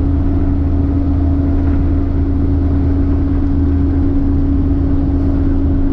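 Cummins N14 diesel engine of a dump truck running steadily at highway cruising speed, a constant deep drone with a steady hum that does not rise or fall.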